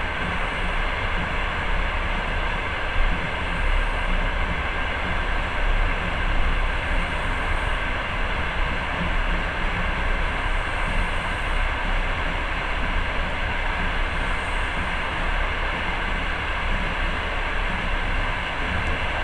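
Passenger train running at speed, heard from inside the carriage: a steady rumble and rush of the wheels on the track, with faint high hisses every three to four seconds.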